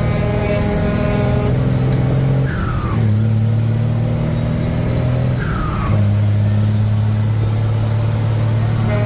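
Truck engine running under way, pulling steadily. Its note breaks and picks up again about two and a half seconds in and again near six seconds, as gears are changed.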